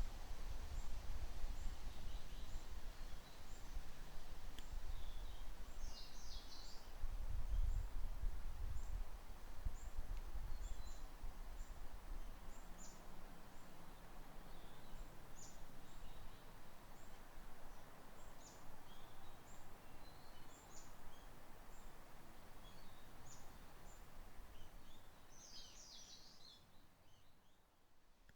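Woodland birds calling with short, high chirps repeated throughout, with a quick run of notes about six seconds in and again near the end. Underneath is a low wind rumble, strongest in the first third, that fades away toward the end.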